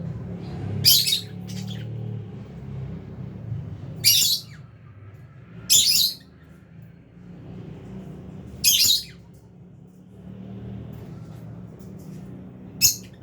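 Flock of lovebirds, albino and Fischer's, giving short shrill squawking calls, about six loud ones spread through, over softer background chatter and a steady low hum.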